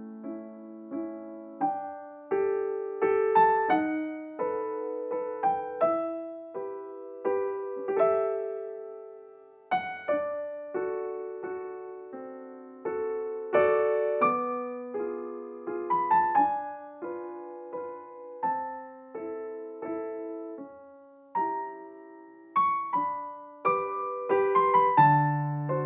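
Background piano music: a melody of struck notes, each ringing and fading, at an unhurried pace.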